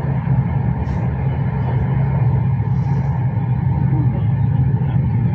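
Steady low rumble of an Intercity passenger train running along the track.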